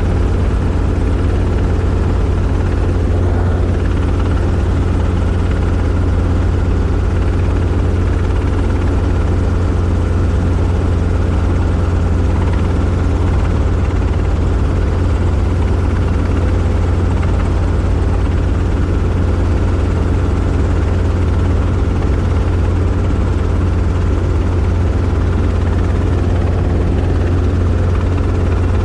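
Robinson R22 helicopter in flight: the steady, loud drone of its rotor and four-cylinder piston engine, unchanging throughout.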